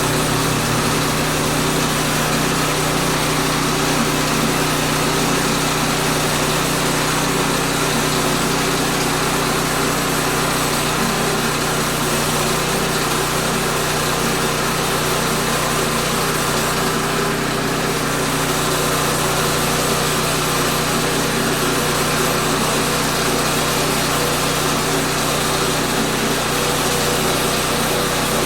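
Small gas engine of a portable bandsaw sawmill running steadily at a constant speed.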